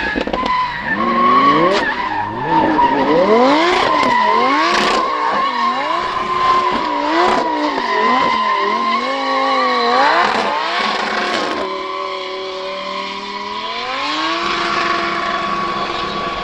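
A drift car's engine revving hard, its pitch swinging up and down many times in quick succession, over a steady high tyre screech as the car slides. Late on the engine holds a steadier note for a couple of seconds, then revs up again.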